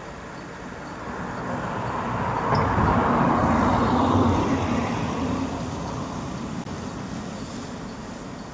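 A vehicle passing by: its noise swells over a couple of seconds, peaks about three to four seconds in, and fades away.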